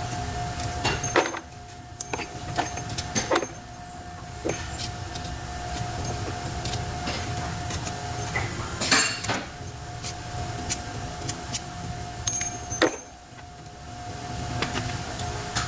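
Workshop sounds during motor repair: a steady hum under a string of sharp clicks and knocks, like tools and metal parts being handled, with the loudest knock about nine seconds in.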